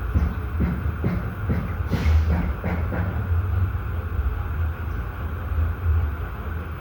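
A steady low rumble, with a run of faint short clicks or calls during the first three seconds and one sharper, brighter sound about two seconds in.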